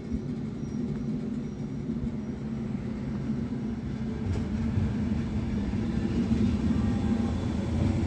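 An NMBS electric multiple unit comes in along the station platform: a steady low rumble of wheels and running gear that grows louder as the train nears, with a faint whine coming in toward the end.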